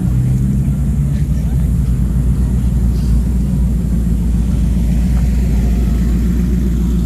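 Car engine running close by with a loud, steady, deep growling rumble.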